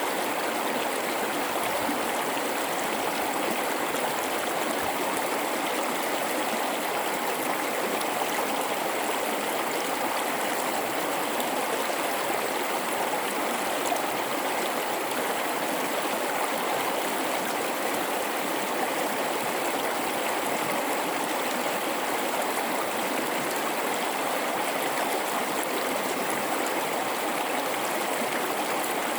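River water rushing steadily through a gorge, a continuous even rush with no breaks.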